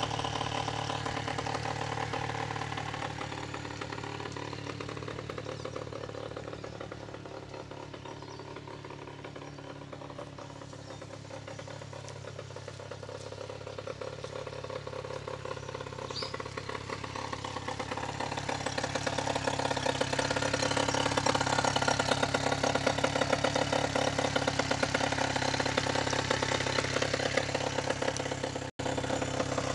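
15 HP Mariner outboard motor running steadily, getting louder through the middle and staying louder in the second half. It cuts out for a split second near the end.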